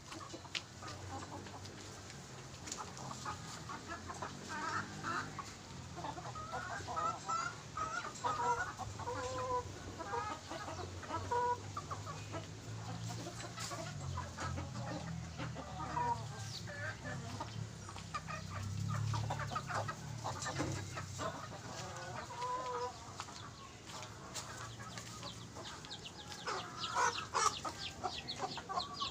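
Chickens clucking: a flock giving short, repeated clucks and calls, mixed with scattered sharp clicks.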